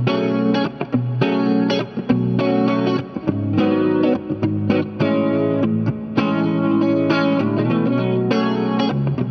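Electric guitar played through a Dolamo compressor pedal and other effects: chords and notes picked in quick succession, each attack sharp and sustaining evenly.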